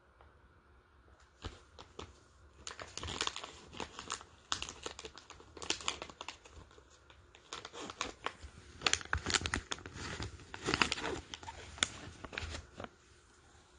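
Crinkling and rustling as something is handled, in irregular bursts of crackles mixed with small knocks, starting about a second and a half in.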